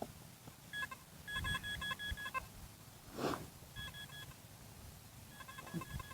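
Metal detector beeping in quick runs of short, high electronic beeps, in three bursts, signalling metal still in the dig hole (more pieces of a buckle). A brief rustle or scrape of digging about three seconds in.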